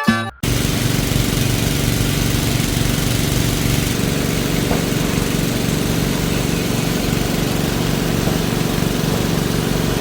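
Engine-driven water pump running steadily at constant speed, pumping out floodwater.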